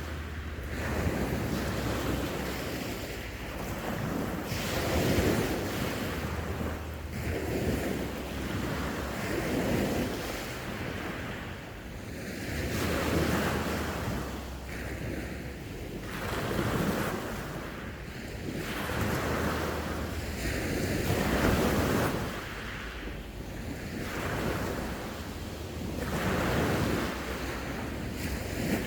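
Sea waves breaking and washing on the shore, a continuous surf that swells and eases every couple of seconds. Wind buffets the microphone with a low rumble.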